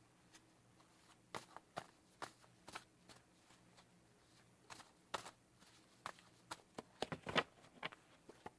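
Faint, irregular short clicks and soft taps, about a dozen scattered through, over a faint steady low hum.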